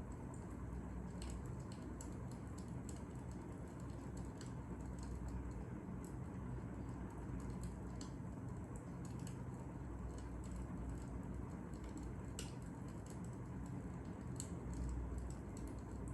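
Fire crackling: irregular sharp pops and snaps over a steady low rush.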